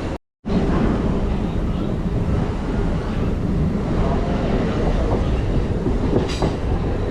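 MMTS suburban electric train running along the line, a steady rumble with wheel clatter on the rail joints. The sound cuts out completely for a moment just after the start, and there is one sharp clank about six seconds in.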